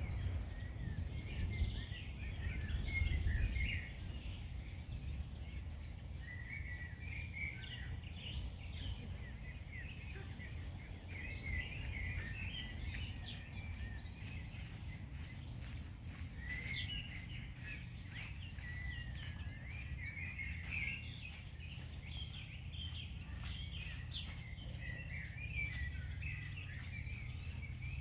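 Several songbirds singing and chirping on and off, over a steady low rumble of wind that is louder for the first few seconds.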